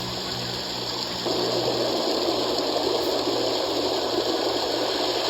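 Water gushing, as at a steam engine's water stop, with the rush growing suddenly louder about a second in over a low hum.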